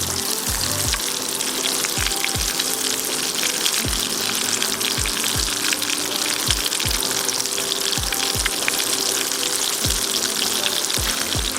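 Trout fillets sizzling as they fry skin-side down in a pan, a steady hiss, with background music with a regular beat underneath.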